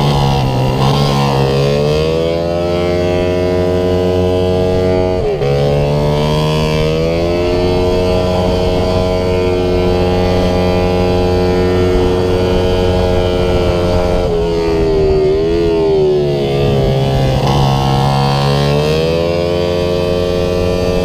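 Single-cylinder pitbike engine running hard around a track, its pitch holding steady on the straights and dipping then climbing again as the throttle is eased and reopened for corners, with an abrupt change in pitch about five seconds in.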